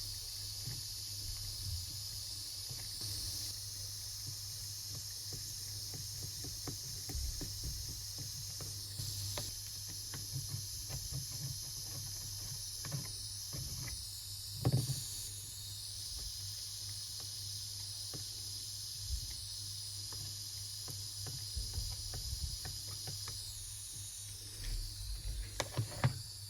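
A steady hiss with a low hum beneath it, and scattered light taps and knocks, the loudest about halfway through and a short run of them near the end.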